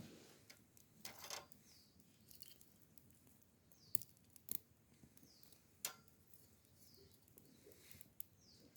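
Faint wood campfire crackling: a few sharp pops and snaps scattered over a quiet background, with soft short high chirps between them.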